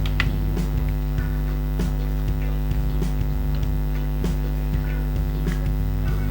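Steady electrical mains hum, with faint short ticks about every half second.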